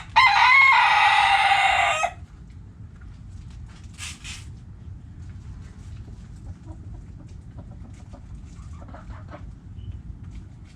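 Rooster crowing once, a loud two-second crow at the start. A brief high sound follows about four seconds in, and faint clucks come near the end.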